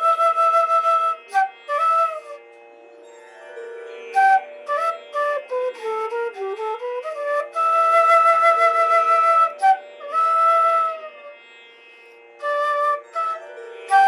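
Solo flute playing a slow melody: long held notes, a quick falling run of short notes in the middle, and two brief pauses.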